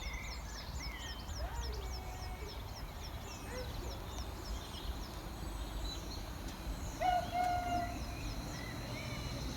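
Small birds singing with rapid, repeated high falling chirps, over a steady low rumble. About seven seconds in, a brief held tone with overtones rises above them.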